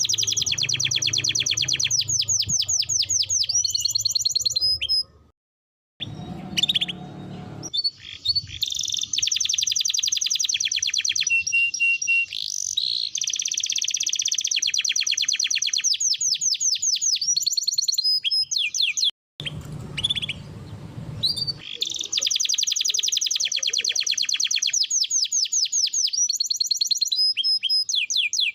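Domestic canary singing long rolling trills of very fast repeated notes, with quick rising and falling whistled sweeps between the tours. The song drops out briefly twice.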